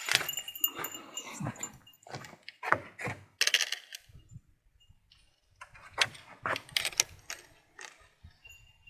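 Handling noise: a scattered series of sharp clicks, clinks and knocks in a few clusters, with quieter gaps between.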